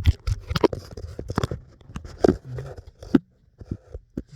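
Handling noise close to the microphone: irregular clicks, taps and rustles of hands working on parts, with a short pause a little after three seconds.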